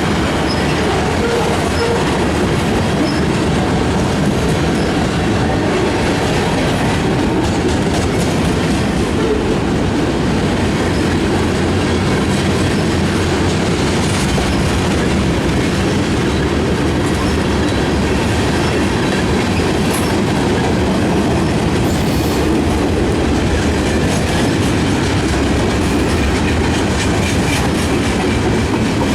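Freight cars of a Canadian National mixed freight train rolling past steadily, a loud continuous rumble with the clickety-clack of wheels over the rail joints.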